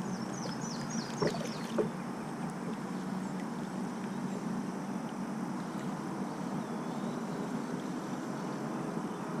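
Steady background noise around a fishing kayak on the water, with a bird giving a quick run of about six short falling high chirps at the start and two sharp knocks around a second and two seconds in.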